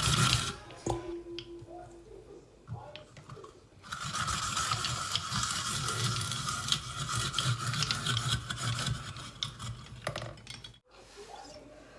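Saladmaster hand-cranked vegetable slicer grating vegetables: a fast, even rasping from the cranked cone blade. It pauses about half a second in with a few light clicks, then runs again from about four seconds in for some six seconds before stopping.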